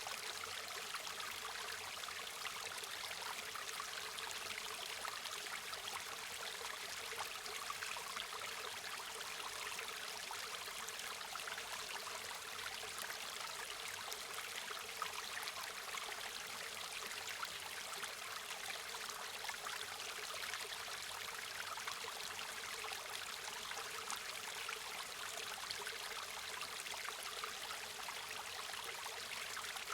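A river or stream flowing, a steady rush of water with fine trickling and splashing detail.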